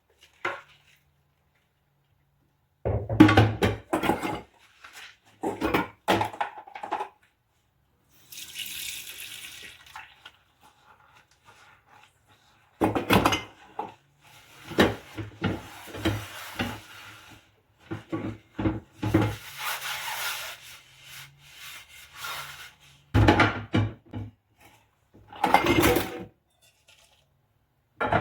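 Dishes clattering against each other and the sink in several bursts during hand washing, with spells of running tap water between them.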